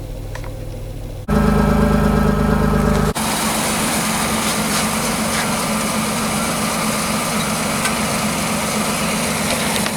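2006 Pontiac Torrent's 3.4-litre V6 idling steadily at an even pitch. The sound changes abruptly a little over a second in and again about three seconds in, where separate clips are cut together.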